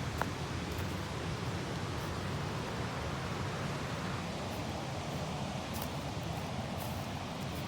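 Steady outdoor ambience: an even hiss over a low rumble, with a faint click just after the start.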